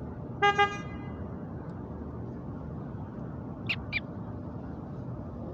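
A car horn sounding two quick short beeps at a steady pitch, followed about three seconds later by two brief high chirps, over steady background noise.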